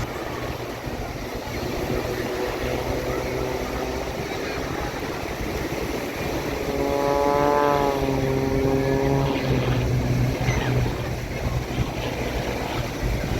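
Aircraft flying past overhead at an airshow: its engine tone swells about halfway through and drops in pitch as it goes by, over a steady background of wind and surf.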